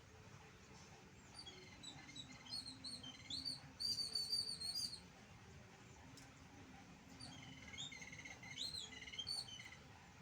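A small bird chirping in two bouts of quick, high chirps, the first about a second and a half in and the second in the latter half.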